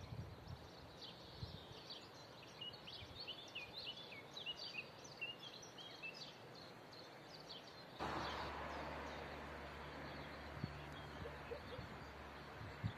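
Small songbirds chirping and twittering in quick, high calls. About eight seconds in, the sound switches abruptly to a steadier rushing noise with a low hum.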